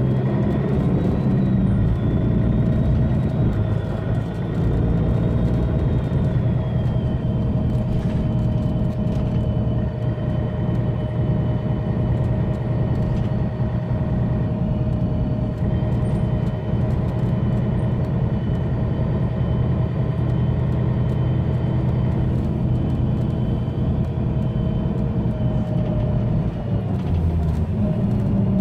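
Mercedes-Benz Citaro bus's OM457hLA straight-six diesel running steadily under way, a low drone with a high, thin turbo whistle held over it. The pitch shifts briefly near the end.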